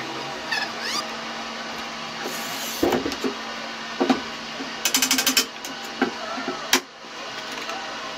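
Wood and tools being handled: scattered sharp knocks and clicks over a steady hum, with a quick rattling run of taps about five seconds in.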